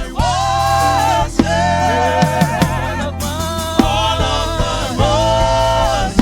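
Live gospel band music: a singer holding long, wavering notes in short phrases over drum kit and a steady bass.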